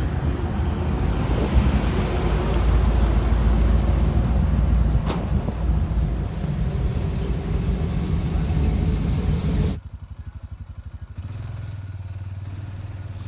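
Vehicle engine running with a steady low rumble and rushing noise, dropping abruptly about ten seconds in to a quieter, steady low hum.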